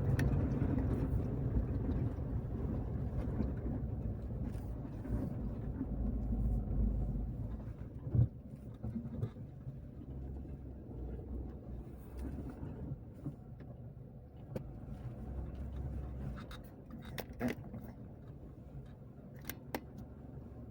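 Car driving along a road: a low rumble of engine and tyres that eases off after about eight seconds, with one sharp knock around then and a few light clicks and taps near the end.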